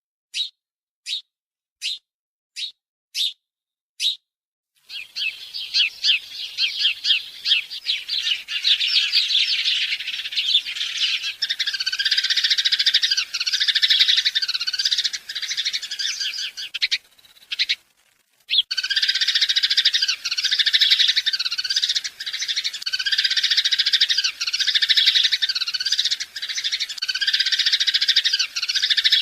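Birds chirping: at first single short chirps about twice a second with silence between, then from about five seconds in a dense, continuous chorus of chirps that cuts out briefly near the middle.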